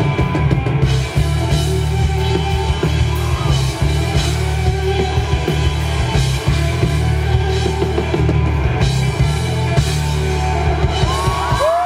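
Rock band playing live: drums and bass pound under electric guitar in an instrumental passage. Near the end the drums drop out and held guitar notes bend upward.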